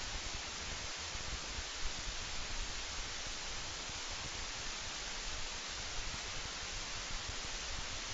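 Steady outdoor wind noise: an even hiss with an uneven low rumble of wind on the microphone.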